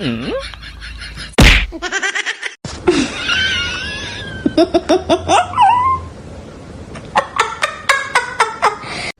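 People laughing in quick, repeated bursts. Other pitched voice or animal cries are mixed in, and a loud smack comes about a second and a half in.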